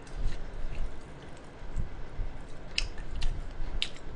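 Close-up chewing and biting of grilled meat pulled off a skewer, the meat cooled and chewy. A few sharp clicks come near the end.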